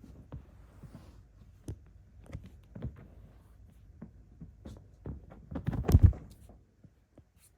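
Kittens scuffling and tumbling about: light scattered knocks and rustles, with a louder cluster of thumps about six seconds in.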